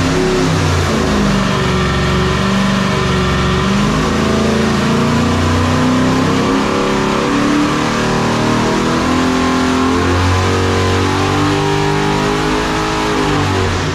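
540-cubic-inch big block Chevy V8 on an engine dyno at full throttle, its pitch climbing steadily as it sweeps up to 6,200 rpm. The run is super clean, with no valve chatter.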